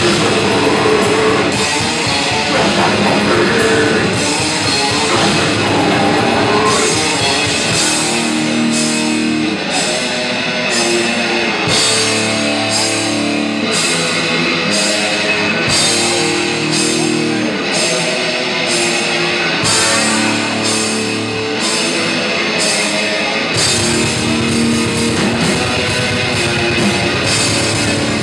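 Death metal band playing live, with distorted guitars, bass and drums at full volume. About eight seconds in, the lowest bass drops away into a passage of held chords and regular sharp hits about once every two-thirds of a second; the full, dense playing returns near the end.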